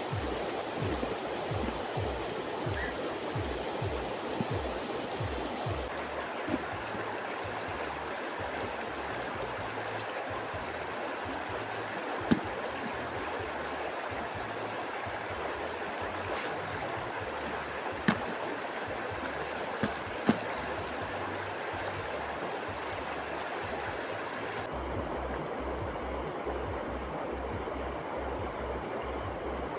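River water rushing steadily beside a campfire, with a few sharp wood pops from the fire, the loudest about twelve and twenty seconds in.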